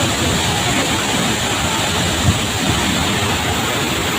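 Steady roar of a large waterfall, the Tegenungan Waterfall, falling water as an even rushing noise, with one brief low thump a little past halfway.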